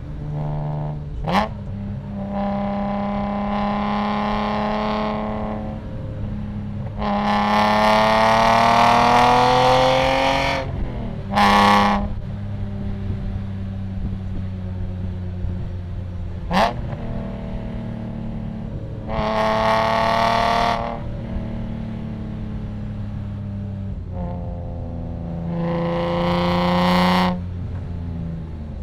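BMW E46 M3's S54 straight-six with a loud aftermarket exhaust, driven hard. It pulls under throttle four times, with the pitch climbing on the longest pull, and falls back to a steadier cruise note between pulls. Short, sharp bursts sit between the pulls.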